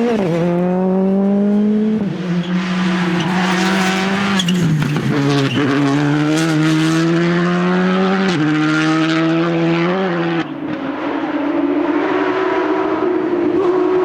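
Rally car engine under hard acceleration, its note climbing and then changing abruptly several times as the driver shifts gear.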